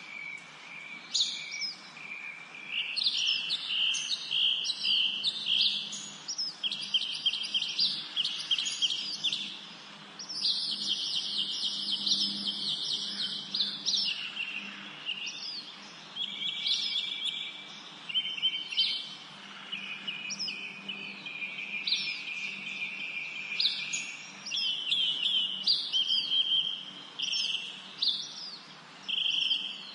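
Several woodland songbirds singing and chirping together, their phrases of quick repeated notes overlapping almost without pause.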